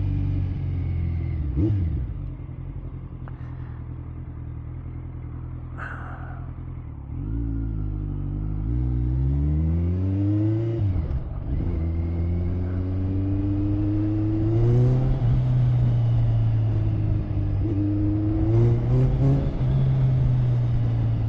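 Motorcycle engine under way. It runs quieter and steady for several seconds, then climbs in pitch as it accelerates, drops sharply at a gear change and climbs again, then holds steady.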